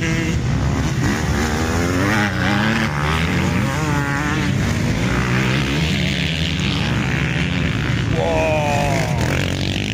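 Several motocross bikes running on the track together, their engines revving up and down in overlapping, changing pitches.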